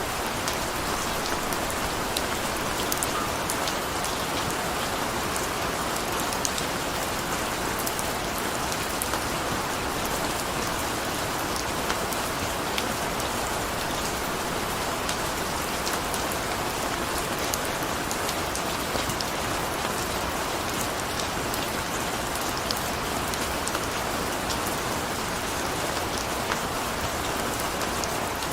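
Steady rain: a constant hiss with many small, scattered drop ticks.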